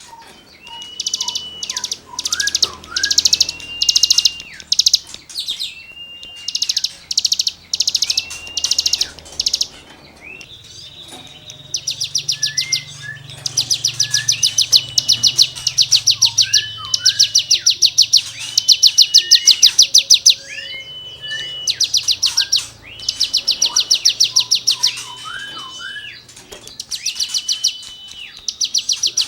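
A cigun songbird singing loudly in repeated bouts. Fast, high, rasping trills alternate with drawn-out whistled notes that hook up or down at their ends. The bouts come every second or two and grow longer and denser about halfway through.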